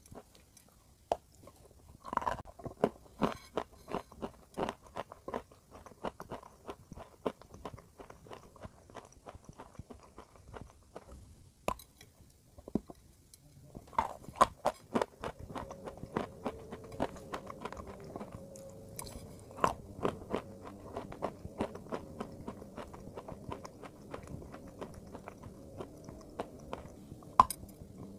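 Close, crisp crunching as a dry, powdery block of clay is bitten into and chewed. The crunches come in quick runs, stop for about a second a little before the middle, then start again with a steady grinding chew under them.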